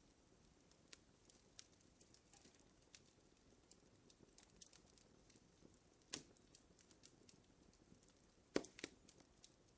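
Wood fire crackling in a fireplace: scattered faint snaps over a low hiss, with two louder pops in the second half.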